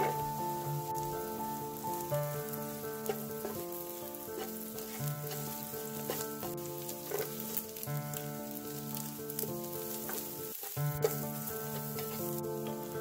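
Hot oil sizzling as diced cured meat and minced garlic fry in a nonstick frying pan, stirred with a spatula, with a few sharp taps of the spatula on the pan. Solo piano music plays throughout.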